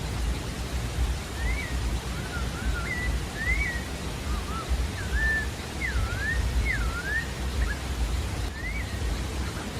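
Pale-breasted thrush singing: a run of short whistled phrases that slide up and down in pitch, starting about a second in and stopping near the end, over a steady low background rumble.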